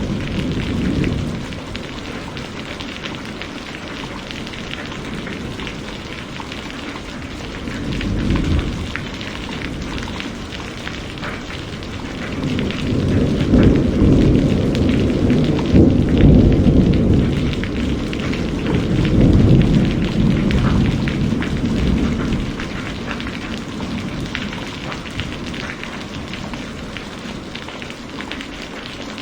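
Heavy rain falling in a steady hiss, with low thunder rumbling under it: a rumble dying away at the start, a short one about eight seconds in, and a longer rolling one through the middle.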